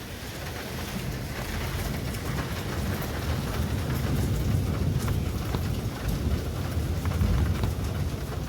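Steady storm rain with scattered drop ticks, under a low rolling rumble of thunder that swells in the second half.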